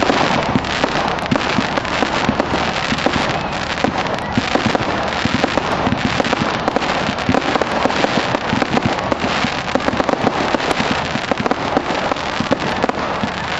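Fireworks going off in a dense, unbroken barrage of sharp cracks and bangs at a steady level.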